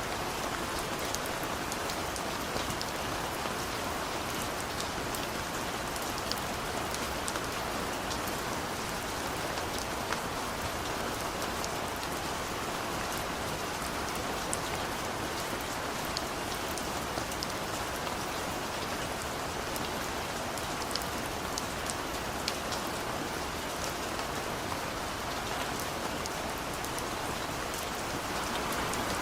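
Steady rain falling, an even hiss with many individual drops ticking sharply on nearby surfaces.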